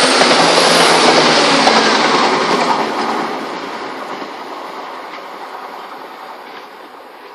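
Class 170 Turbostar diesel multiple unit passing at speed, a loud rush of wheel and rail noise that fades steadily from about three seconds in as the train goes away.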